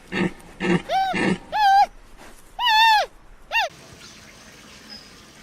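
An animal calling: three short, low, grunt-like sounds, then five pitched calls, each arching up and falling away, the last ones falling sharply.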